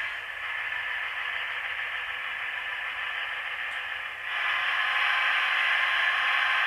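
Sound decoder in a Hornby Class 156 DMU model playing its diesel unit sounds through the small onboard speaker: a thin, hissy running noise that steps up louder about four seconds in.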